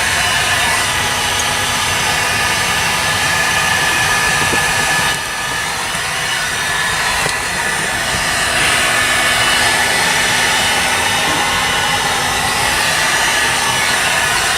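A small electric blower motor running steadily with a loud airy hum. It drops in level about five seconds in and comes back up about three seconds later.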